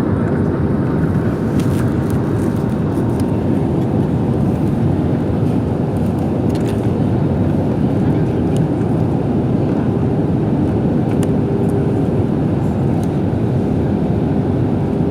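Steady cabin noise of an airliner on final approach: the engines and rushing air heard from a window seat, with a faint steady hum running through it.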